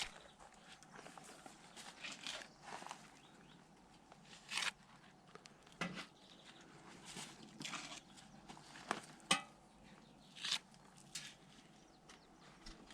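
Scattered light knocks, taps and scrapes at irregular intervals, with a few sharper clicks, two of them close together a little past the middle.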